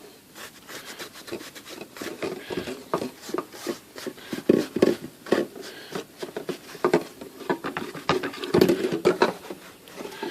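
A cloth rubbing and wiping the inside of a typewriter case cover in short, irregular strokes, with light knocks of the cover being handled.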